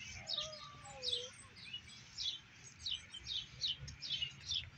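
A small bird chirping over and over: short, high chirps, each dropping quickly in pitch, about two to three a second.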